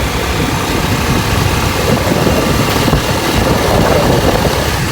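Motorcycle engine running while riding, under a steady rushing noise.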